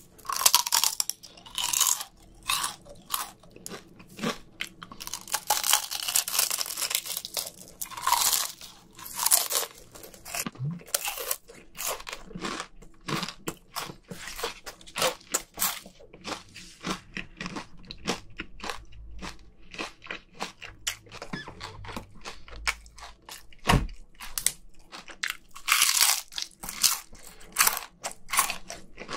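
Biting and chewing crispy fried chicken skin: a fast, uneven run of sharp crunches with louder clusters of bites near the start, about eight seconds in, and near the end.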